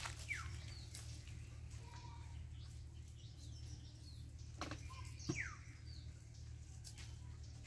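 Faint outdoor ambience: a bird gives short, falling chirps, once near the start and again about five seconds in, over a steady low rumble, with a few light clicks.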